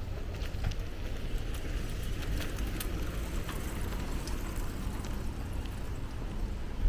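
Outdoor ambience on a forest trail walk: a steady low rumble with scattered small clicks and ticks, and a sharper knock at the very end.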